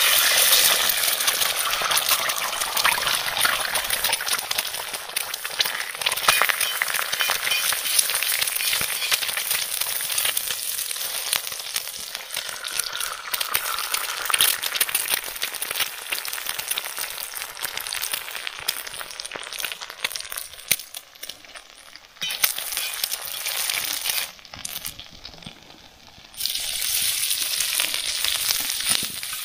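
An egg frying in oil on a hot black iron pan over a wood fire: a dense crackling sizzle that starts as the egg hits the pan. The sizzle drops away twice about three quarters of the way through, then comes back strongly near the end.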